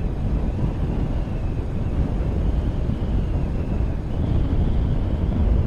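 Motorcycle running along at road speed: steady low engine and road rumble with wind buffeting the microphone.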